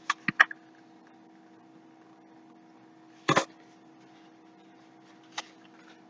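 Handling of a picture book between pages: a few light clicks, then one short rustle about three seconds in, over a faint steady hum.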